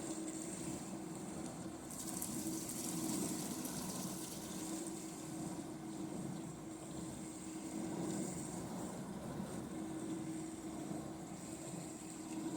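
Winterhalter commercial dishwasher running a wash cycle: its pump hums steadily while water sprays and splashes inside the cabinet, rising and falling in waves.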